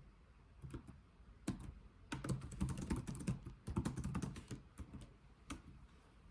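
Typing on a computer keyboard: a few separate key strokes, then a quick run of key clicks for about three seconds, and a last single stroke near the end.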